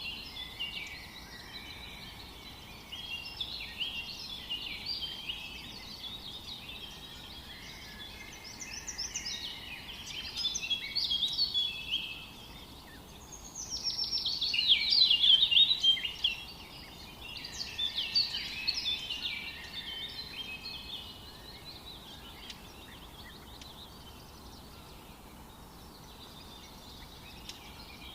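Several songbirds singing and chirping at once, a dense chorus of short high notes over a faint steady hiss, with a louder, rapid run of notes falling in pitch about halfway through.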